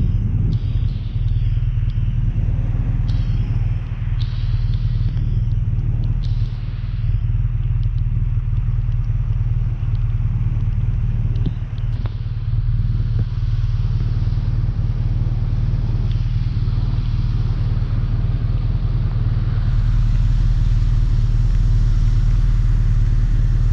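BMW R1200RT boxer-twin motorcycle running on the road, with heavy wind rumble on the microphone; it grows a little louder near the end.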